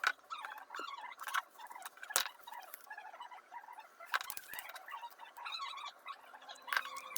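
Faint small clicks and short scratchy squeaks, with about half a dozen sharper taps, from hands and tools working on a phone during a touch-glass repair.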